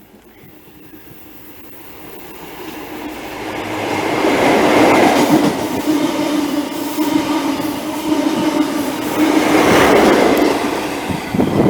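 Class 43 HST passing through at speed: the diesel power-car engine hum and the wheels running on the rails build up over the first few seconds. It is loudest about five seconds in, with a second peak near ten seconds.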